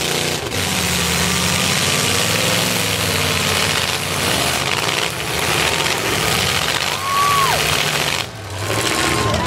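Demolition derby cars' engines running over a dense wash of noise, with a brief drop in level about eight seconds in.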